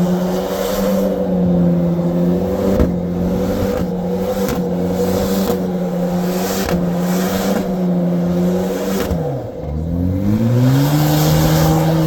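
Truck engine revving hard and held at high revs, with brief dips. About nine seconds in the revs fall sharply, then climb back and hold.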